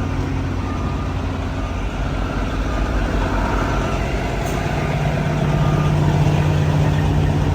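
Semi truck's diesel engine running steadily, heard from the cab, its note growing slightly louder about halfway.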